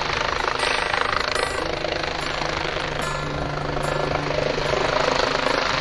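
A helicopter running, its rotor and engine making a loud, steady noise.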